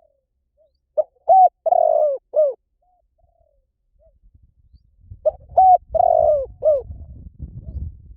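Spotted dove cooing: two phrases of four hooked notes each, about four seconds apart, with a few faint single coos between them. A low rumble comes in under the second phrase.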